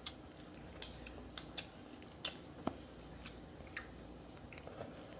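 Close-up eating sounds from a seafood boil: quiet chewing with scattered sharp clicks and small cracks, about ten in all.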